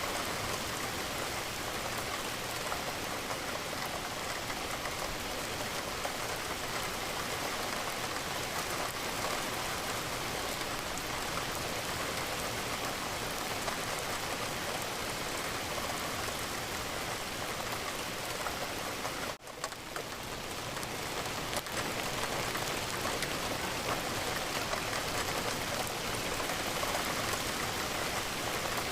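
Steady rain falling against a window. It cuts out for a split second about two-thirds of the way through, then swells back over a couple of seconds.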